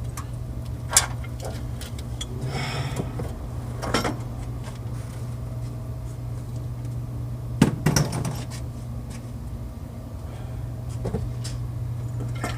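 Metal tools and parts clinking and knocking in a car engine bay, a few sharp clanks with the loudest pair near the middle, over a steady low hum.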